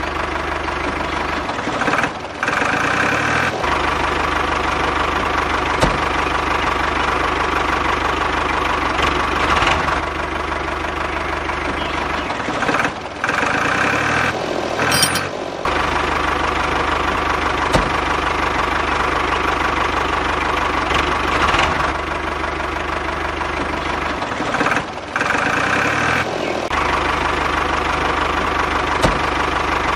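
Engine sound of an RC backhoe loader: a steady diesel-style idle with a knock, repeating about every eleven seconds. Three times the low rumble drops out briefly and a rising whine is heard.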